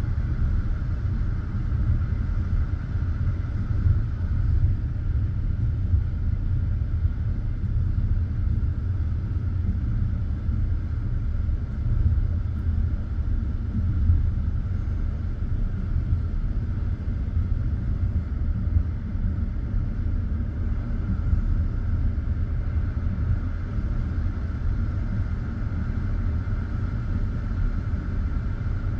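Passenger train carriage rolling on the rails, heard from inside: a steady low rumble with a few louder knocks of the wheels.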